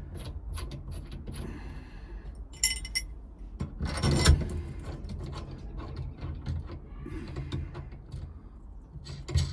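Metal hand tools clicking and clinking at a steering column, with a couple of louder metallic knocks partway through, as a lock plate removal tool is fitted onto the steering shaft.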